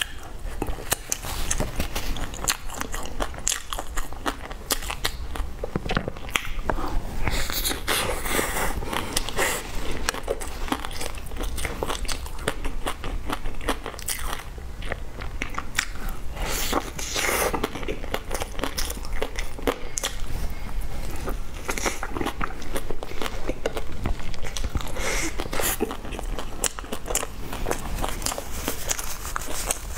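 Close-up eating: biting into and chewing a soft cheese-filled bun with a crumbly floss-and-seaweed coating, a steady run of small mouth clicks and soft crunches, with a few louder clusters of chewing.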